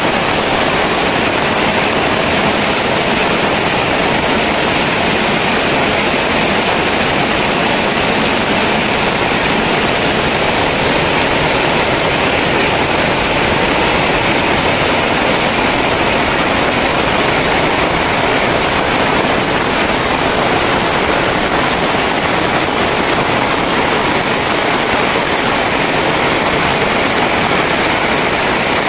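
Heavy downpour of rain, a loud, steady, dense hiss with no breaks.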